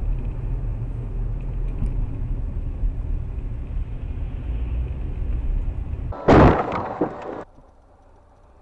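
Steady road and engine rumble in a moving car, then a loud crash impact about six seconds in that stops abruptly after about a second.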